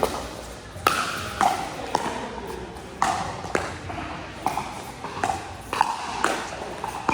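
Pickleball paddles striking the hard plastic ball in a fast rally, a sharp pop roughly every half second to second, about ten hits in all.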